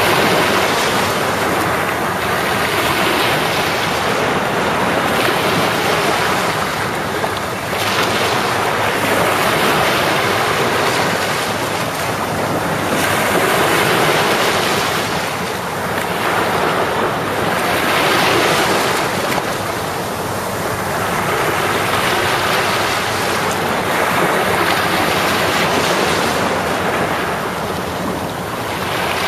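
Sea waves washing onto the shore, each surge swelling and fading about every four to five seconds.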